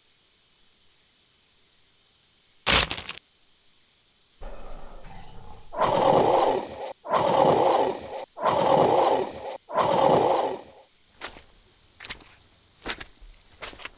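Sound effects for a cartoon animal fight. A sharp crack comes about three seconds in. Then come four loud animal roars of about a second each, followed by a string of short sharp cracks and knocks near the end.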